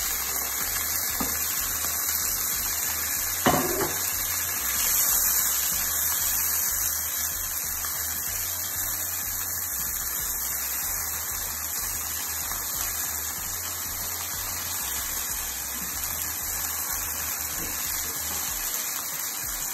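Onions, tomatoes and green chillies sizzling in hot oil in a frying pan as they are stirred with a spatula: a steady frying hiss, with one knock a few seconds in and a faint low pulsing hum underneath.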